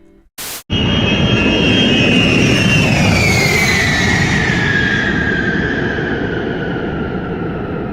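A short burst of TV static, then a B-52 bomber's jet engines going by loudly. A high whine in the engine noise slides steadily downward in pitch over several seconds as the aircraft passes.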